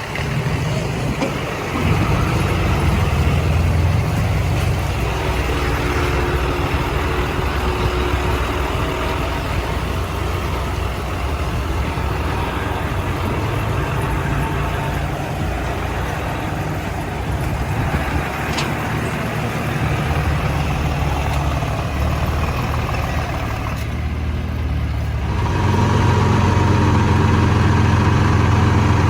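Heavy diesel earthmoving machinery running continuously, its engine note rising and falling as the machines work. Near the end there is a brief lull, then a louder, steadier engine note.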